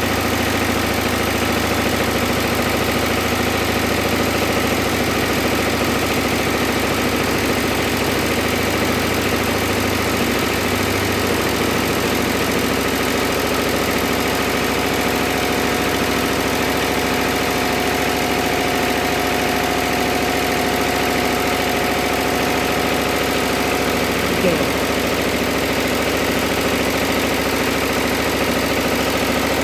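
Single-cylinder diesel engine running steadily during a load test.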